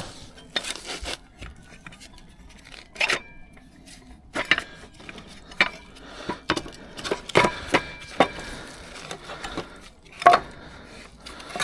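Handling of a cordless circular saw while its cutting depth is adjusted: irregular sharp clicks and knocks of hard metal and plastic parts, a few with a short metallic ring, with rubbing and scraping between them.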